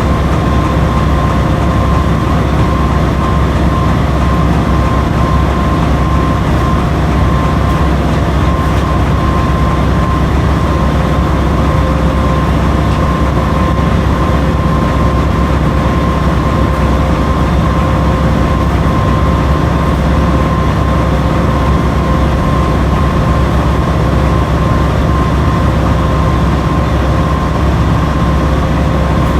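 Washing machine running: a steady, loud low rumble with a constant whine over it, without letup.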